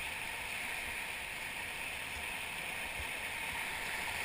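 Whitewater river current rushing steadily around a raft.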